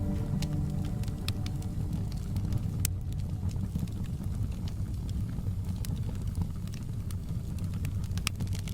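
Fireplace crackling: irregular sharp pops and snaps over a low, steady rumble of burning wood.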